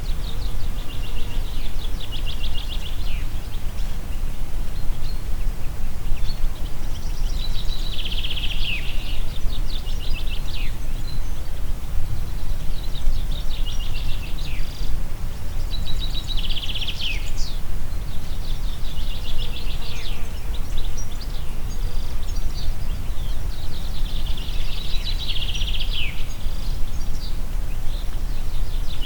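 Steady low rumble of wind, with a songbird repeating a rapid trilled phrase every few seconds, each phrase ending in a falling note.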